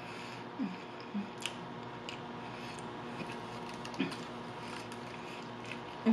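Close-up mouth sounds of chewing a bacon cheeseburger topped with crispy onion rings: scattered soft crunches and wet clicks, with a new bite taken about four seconds in.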